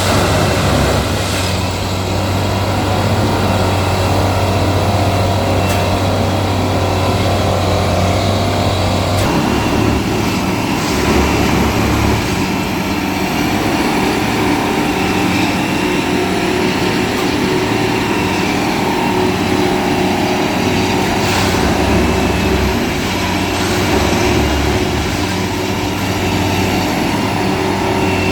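Indian Railways DTE track machine working: a heavy engine drones steadily, its low hum changing about nine seconds in, with occasional knocks over it.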